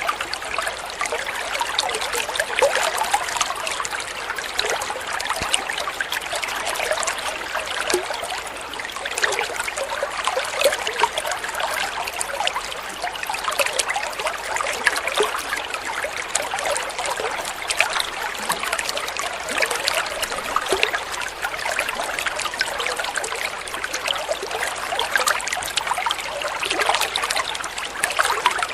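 Water flowing and trickling steadily, a busy, even splashing that does not change.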